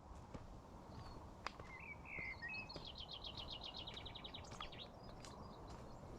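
A bird singing in woodland: a few short chirps, then a fast, even trill of about twenty notes lasting under two seconds. A few faint clicks sound over a low background rumble.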